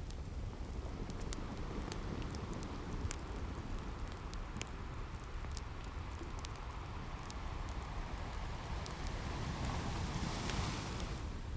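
Wood fire crackling with scattered sharp pops over a steady low wash of ocean surf; a wave swells up near the end.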